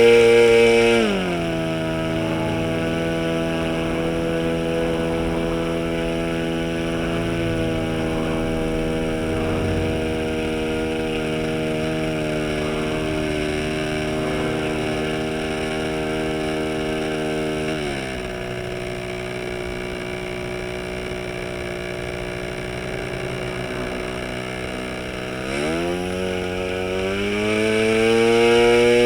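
OS 15LA model two-stroke engine, converted to run as a diesel, spinning a 10x6 propeller at high speed. About a second in its speed drops and holds, drops further about two-thirds of the way through, then climbs back to full speed near the end as its compression and needle settings are adjusted to find the best running point.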